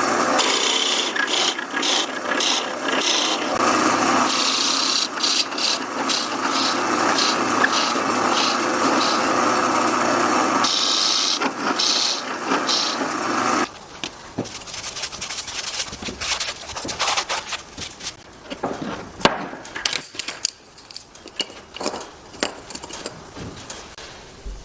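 A woodworking power tool running and cutting or sanding wood, loud and steady, stopping suddenly about fourteen seconds in. After that come scattered knocks and clicks of wooden pieces being handled.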